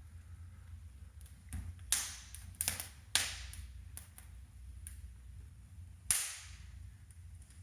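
Wood fire crackling in a brick fireplace: a few sharp pops and snaps, the loudest about two, three and six seconds in, with fainter ticks between.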